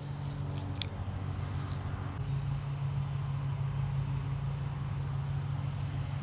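Steady low mechanical hum, like distant traffic or a running machine, with one short sharp click about a second in.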